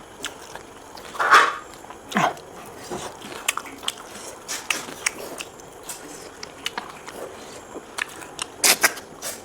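Close-up eating sounds: wet chewing clicks and smacks while eating snails and pork ribs in curry. There is a sharp, loud sound about a second in and a shorter one that drops in pitch just after two seconds, with a burst of clicks near the end.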